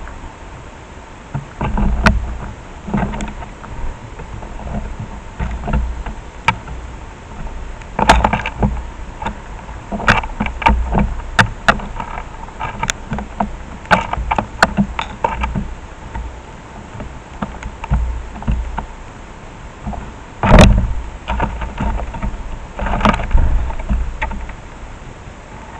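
Sparrows feeding at a camera bird feeder: irregular sharp taps and knocks of beaks and feet on the feeder, several in quick clusters, over low thumps and rumbles.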